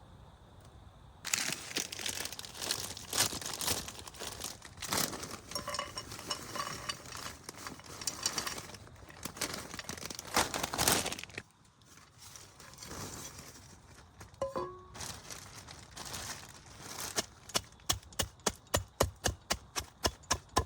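Crinkling and rustling handling noise for about ten seconds. After a quieter stretch, a fast, even run of sharp chopping knocks begins near the end, about three to four a second.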